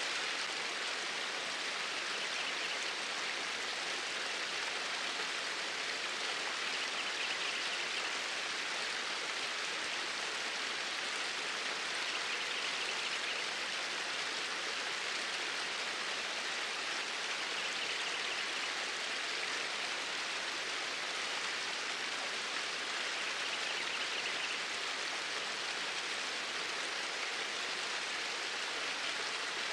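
Flowing water of a stream, a steady rushing hiss with no break, swelling faintly in its higher part every five seconds or so.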